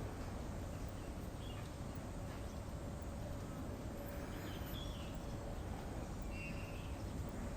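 Steady outdoor background noise with a low rumble, and a few faint, short bird calls about four seconds in and again near the end.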